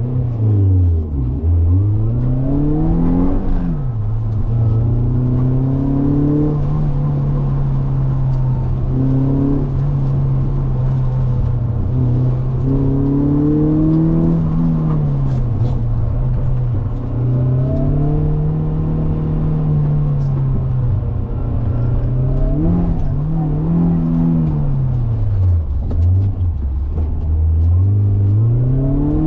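Mazda MX-5's four-cylinder engine heard from inside the cabin, driven hard through a cone course: it revs up, drops at each gear change or lift-off, and climbs again, the pitch rising and falling every few seconds.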